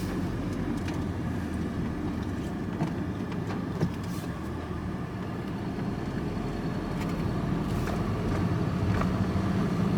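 Vehicle engine and road noise heard from inside the cab while driving: a steady low running hum with a few faint clicks, growing slightly louder towards the end.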